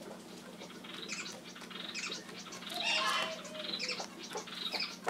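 Pet birds chirping in short, repeated high calls, with a louder burst of sound and a flutter of wings about three seconds in, and light clicks of the compass keychain being pecked and moved.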